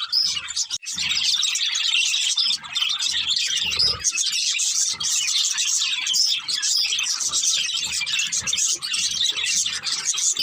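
A group of budgerigars chirping and chattering nonstop in a dense, fast twitter, with soft low thuds underneath.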